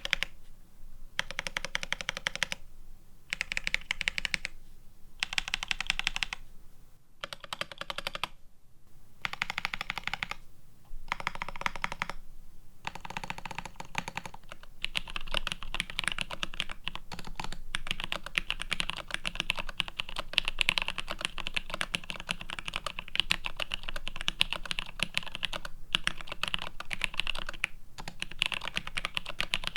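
Typing on a GRID650 mechanical keyboard, plateless and PCB-mounted with GMK keycaps, fitted with tactile switches. The first half is short bursts of keystrokes with brief pauses between them on Azure Dragon switches; about halfway through, continuous steady typing starts on C³Equalz x TKC Kiwi tactile switches.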